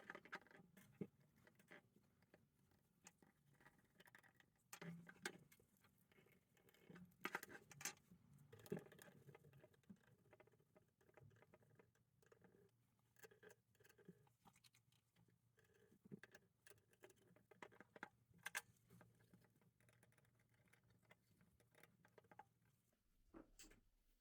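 Faint, irregular clicks and taps of small parts being handled, with a faint low hum in the second half.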